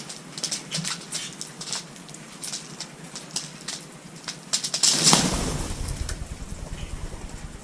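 Small birds at a seed feeder: scattered light clicks and taps, then about five seconds in a sudden flurry of wing flaps, loudest part of the clip, with a low rush that fades away over the next two seconds.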